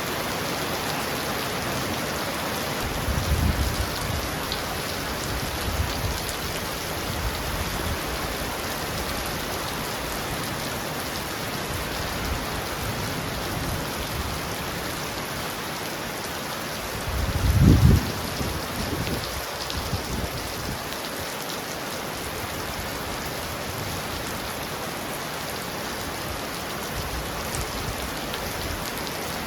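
Heavy rain pounding steadily on a roof, an even hiss of drops, with a few brief low rumbles, the loudest a little past the middle.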